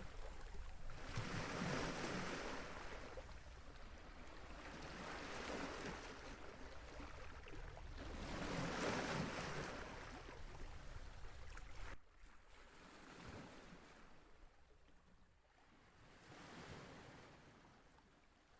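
Small waves washing onto a lakeshore, the noise swelling and ebbing every few seconds, with wind. About two-thirds of the way through it drops suddenly to a quieter wash.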